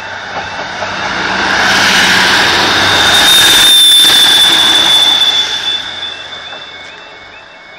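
A two-car diesel multiple unit passes at close range: the noise of engine and wheels on the rails swells to a peak in the middle and fades away, with a thin high whine at its loudest. The level crossing's warbling alarm comes through again near the end as the train recedes.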